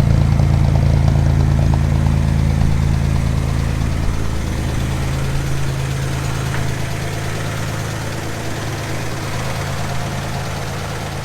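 1954 GMC 100 pickup's engine idling steadily, still warming up within a minute of a cold start, growing gradually quieter.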